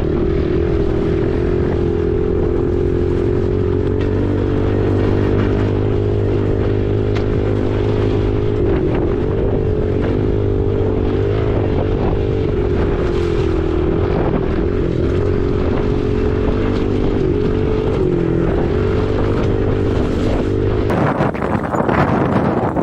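Dirt bike engine, most likely a Husqvarna 501's single-cylinder four-stroke, running at a steady cruising pitch with a few brief dips as the throttle eases. Near the end the engine note drops away and wind buffeting on the microphone comes up.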